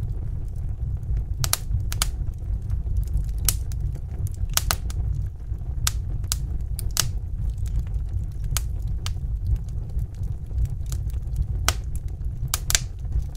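Wood fire in a fireplace crackling: irregular sharp pops and snaps, some in quick pairs, over a steady low rumble of burning.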